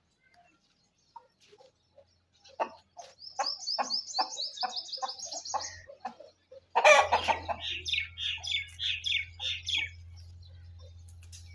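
Chickens clucking in a rapid series, about three to four calls a second, with high chirping notes over them, then a loud squawk about seven seconds in followed by another quick run of calls.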